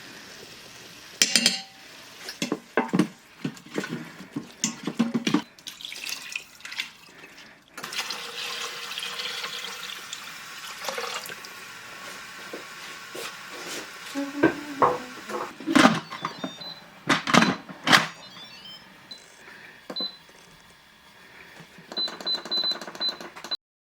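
Clattering knocks with a stretch of water running from a tap near the middle.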